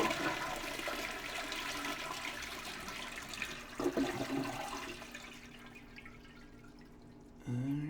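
Toilet flushing, with the water supply meant to be shut off so the tank drains empty for repair. The rush of water fades away over about five seconds.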